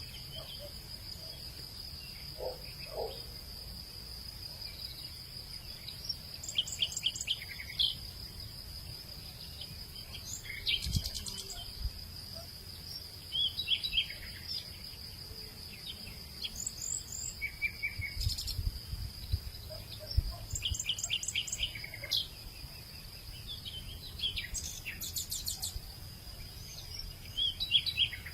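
Insects keep up a steady high-pitched drone while songbirds chirp and trill on and off, in short runs of quick notes. A faint low rumble sits underneath.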